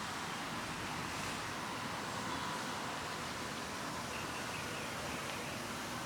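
Steady rushing outdoor background noise with no distinct events. A faint high tone comes in briefly about four seconds in.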